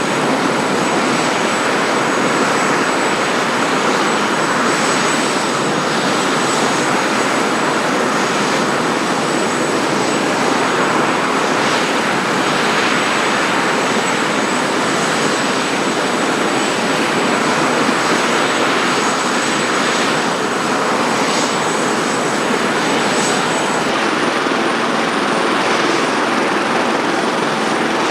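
Sikorsky S-76C helicopter's twin turboshaft engines and rotor running steadily, with a thin high turbine whine over a broad rushing noise; the whine shifts slightly higher near the end.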